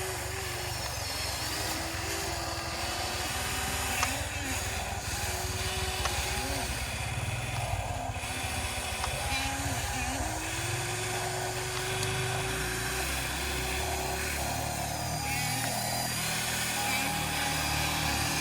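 RC excavator running and working: a motor whine that keeps rising and falling in pitch every second or two as the machine moves, over a steady low rumble.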